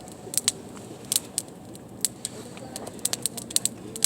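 Campfire crackling: burning wood snapping and popping in sharp, irregular cracks, some single and some in quick clusters of two or three.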